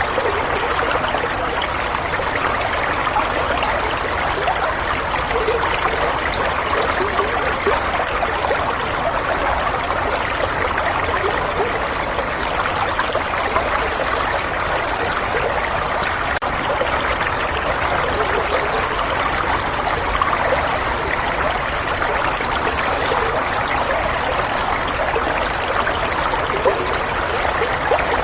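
Running water flowing and trickling steadily, a continuous bubbling rush used as soothing white noise.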